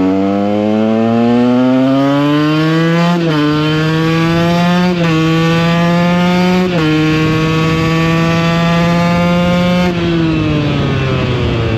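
KTM EXC 125's single-cylinder two-stroke engine pulling away. The revs climb, then drop sharply three times as it shifts up through the gears about every two seconds. It holds a steady note for a few seconds, then the revs fall near the end as the throttle is eased off.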